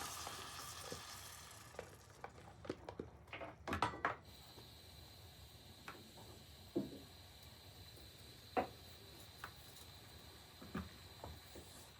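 Pot of green beans sizzling faintly, the hiss dying away, then a quick run of clicks and knocks as a utensil works in the pot while tomatoes go in, followed by a few single taps.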